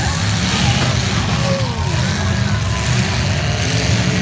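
Engines of several demolition derby cars running and revving together in a steady, loud low rumble.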